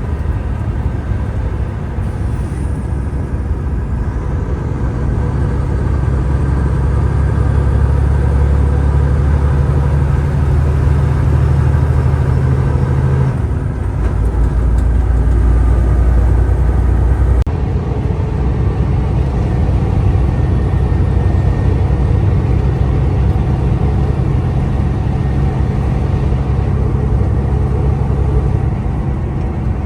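Semi truck's diesel engine and road noise while driving, a steady low drone. The engine note changes pitch abruptly about 13 seconds in and again about 17 seconds in.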